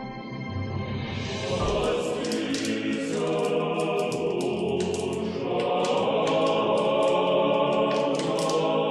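Choral music: a choir singing, building in from about a second in, with many short sharp high accents over it.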